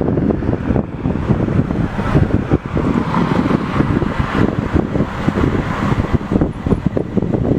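Loud, steady rumbling vehicle noise mixed with wind buffeting the microphone.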